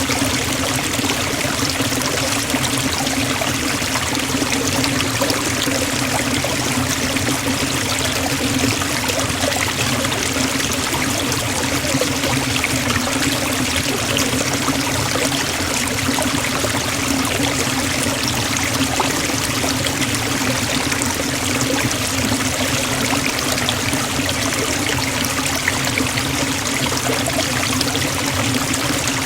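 Forest waterfall: water falling and rushing steadily, with no change in level.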